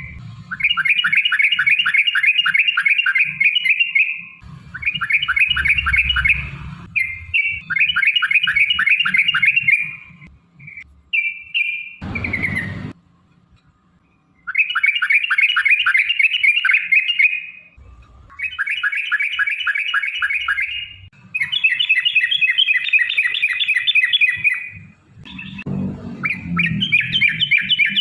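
Yellow-vented bulbul (trucukan) singing its long rolling 'ropel' song: about seven loud phrases of fast repeated chirping notes, each lasting two to four seconds, separated by short pauses. A brief burst of noise cuts in about twelve seconds in.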